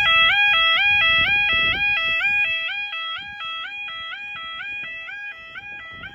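Level crossing warning alarm sounding: a two-tone electronic yodel that switches rapidly back and forth between a lower and a higher pitch, about two and a half times a second. It grows quieter from about two seconds in.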